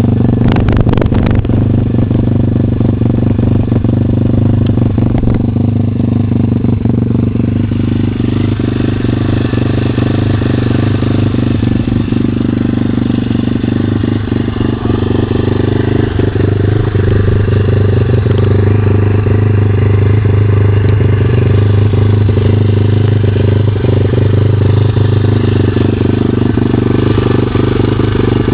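150 cc pit bike's single-cylinder four-stroke engine idling at a steady pitch, with a few sharp clicks about a second in.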